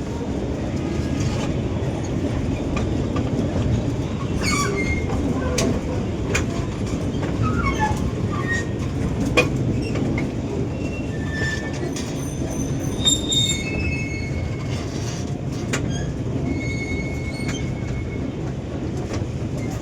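Small ride-on park train running along its track. There is a steady low rumble, with scattered clicks and short high squeals through the middle of the ride.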